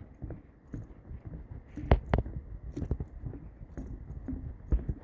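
Footsteps of a person walking at a brisk pace, with rubbing and knocks from a hand-held phone.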